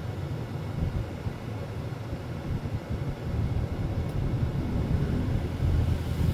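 Low, steady rumble of a truck running, heard from inside the cab.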